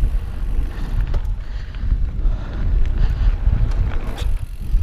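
Wind buffeting the microphone of a mountain bike rolling over dirt bumps, a steady low rumble with a few faint clicks and rattles from the bike.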